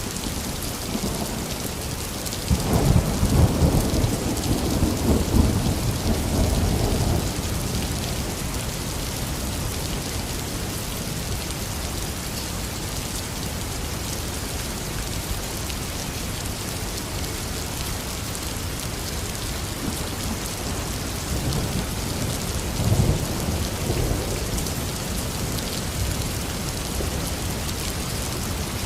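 Steady heavy rain with two rolls of thunder: a loud rumbling one starting about two and a half seconds in and lasting several seconds, and a fainter one near the end.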